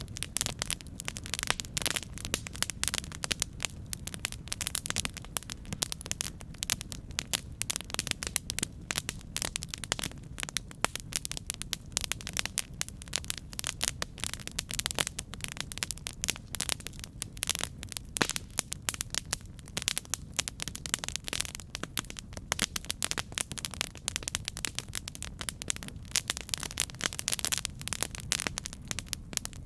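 Campfire burning with dense, continuous crackling: many sharp clicks a second over a low steady rumble.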